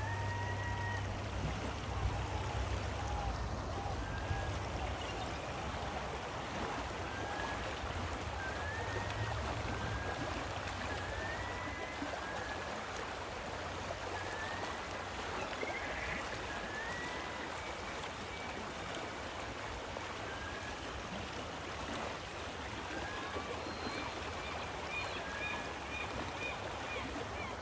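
Creek water rushing steadily over a salmon-spawning stream. Many short rising calls sound over the water throughout, with a quick run of short high notes near the end.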